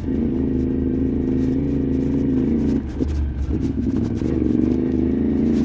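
CFMoto 450MT's parallel-twin engine running steadily under way, with a brief dip in engine note about three seconds in. Scattered clicks and knocks sound over it.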